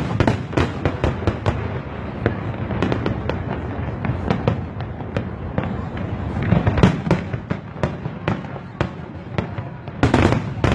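Fireworks going off in quick succession: many sharp bangs and crackles over a continuous low rumble, with a louder cluster of bursts about two thirds of the way through and another near the end.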